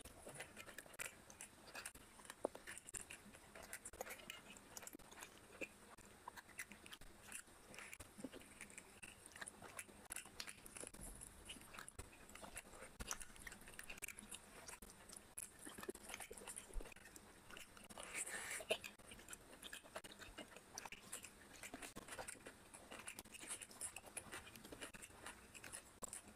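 Close-up eating sounds of a person chewing rice and curry, with soft wet mouth clicks and smacks, and fingers squishing and mixing rice on the plate. One louder, noisier burst about two-thirds of the way in.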